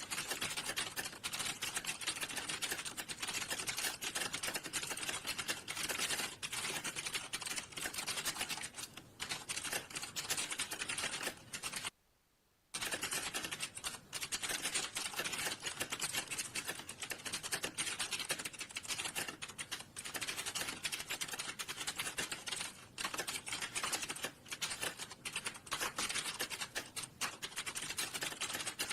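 Fast, continuous typing on a computer keyboard, a dense run of clicking keystrokes that stops abruptly for under a second about twelve seconds in, then resumes.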